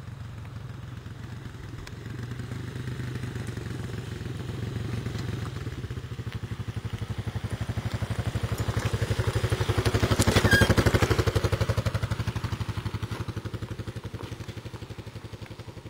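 Small off-road vehicle's engine running with an even pulsing beat as it approaches, passes closest about ten seconds in, then fades away.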